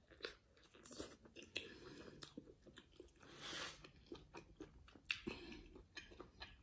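Faint close-up biting and chewing of a slice of pizza: the crisp crust crunches in many small, irregular crunches between the teeth, with one longer soft rush a little past halfway.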